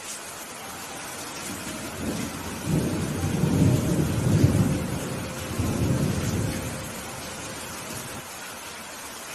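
Steady rain with a roll of thunder that builds about two seconds in, rumbles loudest over the next few seconds and dies away before the end.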